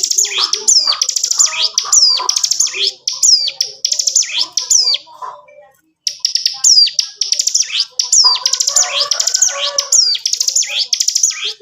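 Ciblek gunung, a prinia, singing a fast, dense chattering song of high down-slurred notes and rapid drill-like trills. It sings in two long bouts with a brief break about five seconds in.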